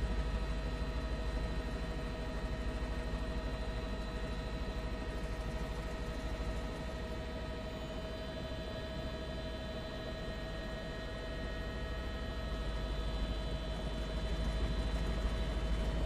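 Helicopter cabin noise picked up through the crew's headset microphone: a steady low drone with constant humming tones on top.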